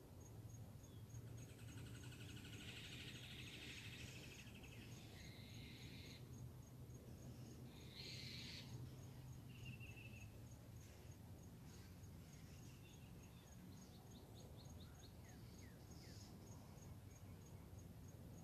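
Faint outdoor morning ambience: scattered bird calls and short trills come and go. They sit over a steady high-pitched ticking that repeats a few times a second, with a low hum underneath.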